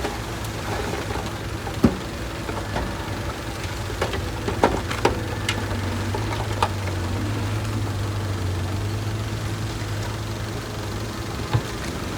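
Heavy construction-machine diesel engine running steadily with a low hum, with a few sharp knocks or clanks, the loudest about two seconds in and another near the end.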